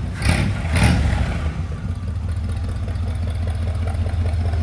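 1972 Corvette's 350 V8 revved twice briefly about half a second apart, then settling back to a steady idle.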